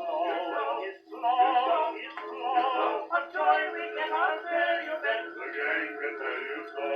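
Edison Diamond Disc phonograph with an Edisonic reproducer playing a 1912 acoustic recording of a male vocal quartet with orchestra. The music sounds thin, with no deep bass and no high treble, and it breaks off briefly about a second in.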